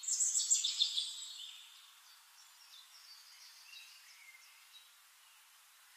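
Birds chirping: a cluster of quick high chirps in the first second and a half, then fainter scattered calls.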